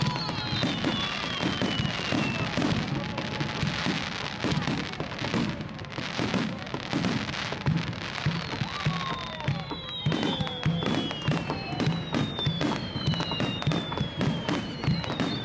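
Fireworks display in a continuous barrage: dense, rapid bangs and crackling bursts, with several high whistles that fall in pitch.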